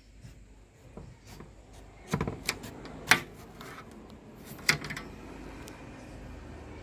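A few sharp knocks and clatters: a short cluster about two seconds in, the loudest single knock about three seconds in, and another just before five seconds.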